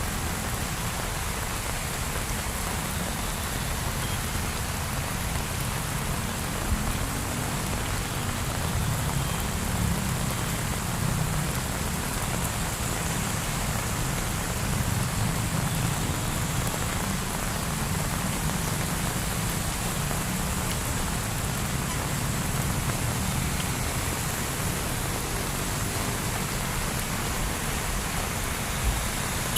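Heavy rain pouring steadily, with a low steady rumble underneath.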